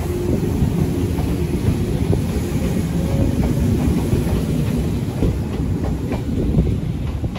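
Electric commuter trains running along both tracks of a station, a steady rumble of steel wheels on rail with repeated clacking over the rail joints.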